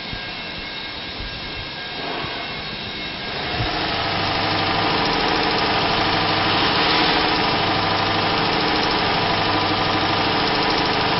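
The truck's 5.7-liter Hemi V8 running. A quieter hum for the first few seconds, then a knock about three and a half seconds in, after which it runs louder at a steady idle.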